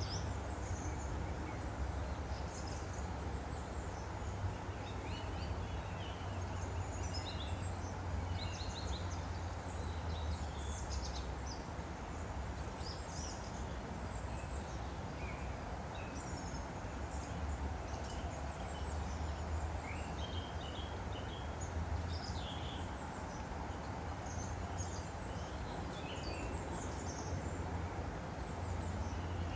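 A woodland stream flowing steadily, with many small birds chirping and calling over it throughout.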